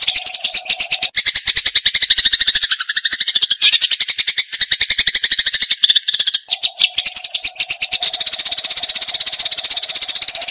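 Eurasian tree sparrow giving its agitated fighting chatter: a loud, fast, unbroken run of sharp chirps, many notes a second, the kind of call used as a 'masteran' model for training competition songbirds.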